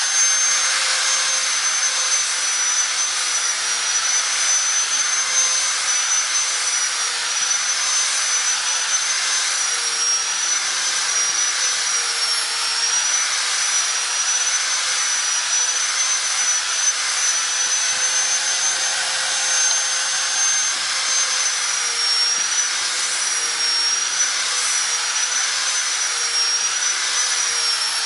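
Handheld grinder fitted with a 150-grit sanding disc, spinning at about 12,000 rpm, runs with a steady high whine while sanding cage bars round; its pitch sags briefly several times as the disc is pressed into the work.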